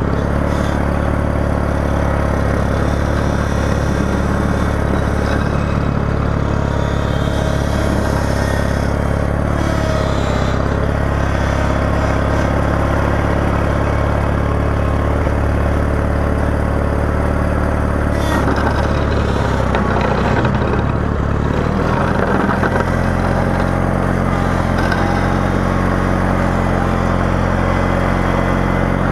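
Small tractor engine running steadily while plowing snow. Its note shifts lower about two-thirds of the way through, as the engine speed or load changes.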